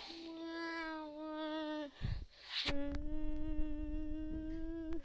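A voice humming two long, steady held notes, each lasting about two seconds, with a short low knock in the gap between them.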